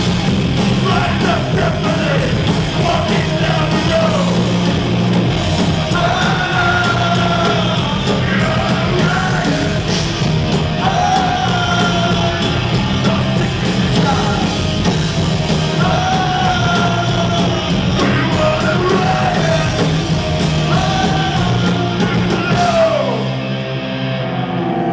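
Punk rock band playing live, with yelled, shouted vocals over the full band. Near the end the playing changes and winds down as the song finishes.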